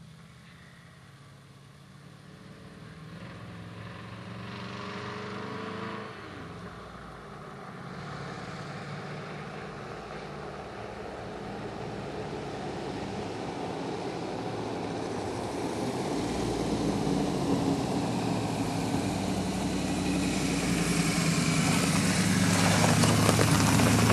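Rover V8 engine in a Mk2 Toyota Hilux running and growing steadily louder, with a brief rise in pitch about five seconds in.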